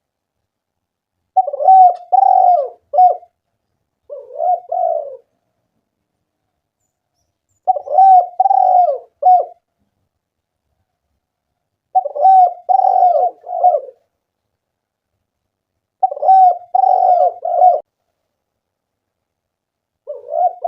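Spotted dove (tekukur) cooing in repeated phrases of two or three low, rolling notes, a new phrase about every four seconds with silence in between.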